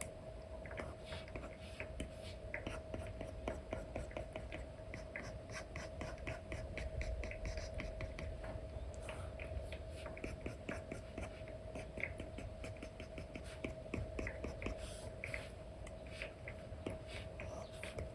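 Apple Pencil with a paper-textured Elecom nib stroking and tapping on an iPad's paper-like screen film, a continuous run of quick, short scratchy strokes. A faint steady hum runs underneath.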